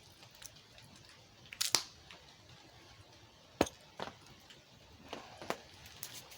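Handling noises: a short rustle and a scatter of sharp clicks and small knocks, the loudest click about three and a half seconds in.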